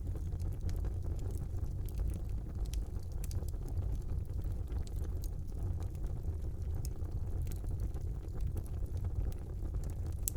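Wood fire burning in a brick fireplace: a steady low rumble of flames with scattered small crackles and pops.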